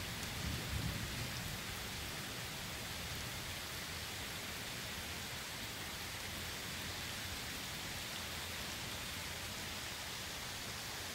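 Steady rain falling, an even hiss. A brief low rumble of thunder swells about a second in, then fades under the rain.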